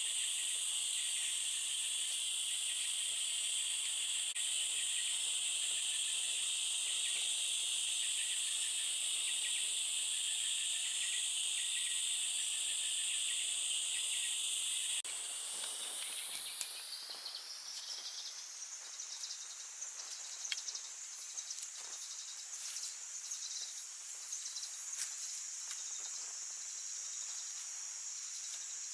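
Steady chorus of forest insects, a continuous high-pitched drone. About halfway through it turns a little quieter, glides up in pitch over a few seconds, then holds steady at the higher pitch, with a few faint clicks.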